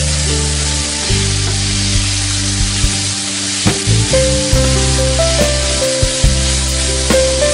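Chicken pieces and sliced onions sizzling in a hot frying pan while a wooden spoon stirs them, with a few sharp clicks of the spoon against the pan around the middle. Background music with held notes plays along.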